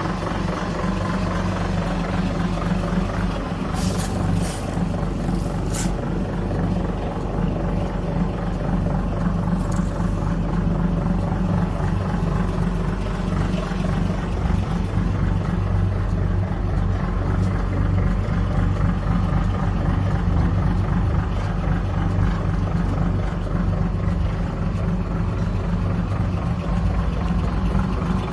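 A 1936 Chevrolet's engine idling steadily, with a few brief clicks about four to six seconds in.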